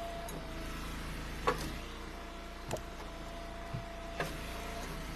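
Pieces of split firewood being thrown onto a pile, landing with four sharp wooden knocks at uneven intervals, over a steady engine hum.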